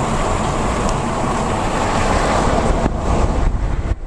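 Steady road and wind noise of a car moving at highway speed: a deep rumble with hiss above it. Near the end the noise briefly dips a few times.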